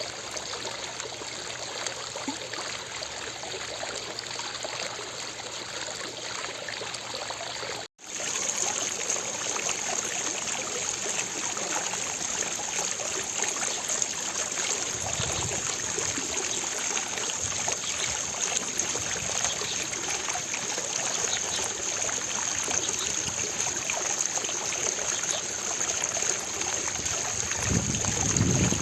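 Water from a fountain splashing and falling in a steady, even rush. About a third of the way in it drops out for an instant and comes back a little louder and brighter.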